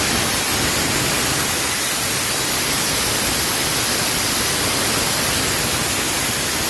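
Air carbon arc gouging: the arc and its compressed-air jet make a loud, steady hiss that runs without a break.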